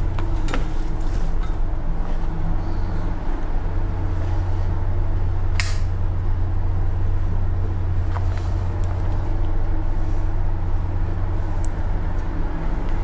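Steady low mechanical hum of a tanker's machinery heard on board, with a few short clicks, the sharpest one about halfway through.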